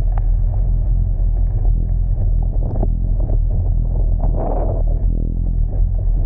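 Car driving, a steady low rumble of engine and road noise, with a few light knocks and a brief louder whoosh about four seconds in.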